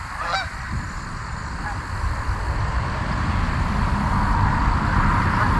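Wind rumbling on the microphone, growing louder after about two seconds, with one short waterfowl call about half a second in.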